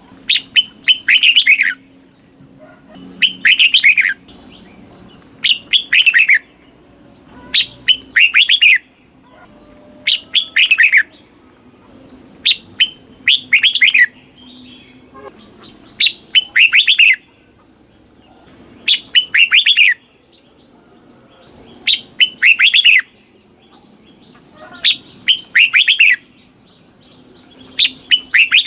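Red-whiskered bulbul singing: short, loud whistled phrases with falling notes, repeated every two to three seconds, over a faint steady low hum.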